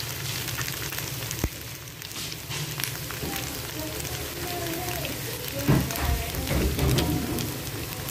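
Sauce-coated chicken feet sizzling in a nonstick frying pan, a steady dense crackle of spitting fat and sauce, with a single sharp knock about a second and a half in.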